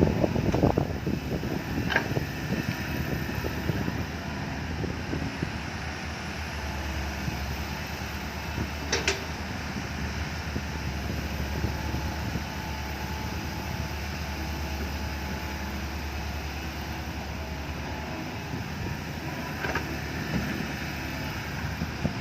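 Six-wheel dump truck's diesel engine running steadily, with three sharp metallic clanks spread through it.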